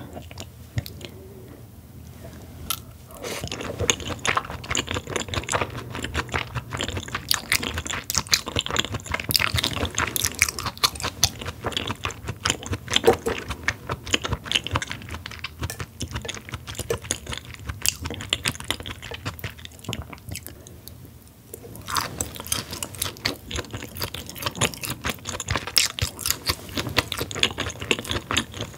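Close-miked chewing of raw beef rib meat dressed as yukhoe with egg yolk and sesame oil, heard as many quick mouth clicks and smacks. It is quieter for the first few seconds and eases off briefly about three-quarters of the way through.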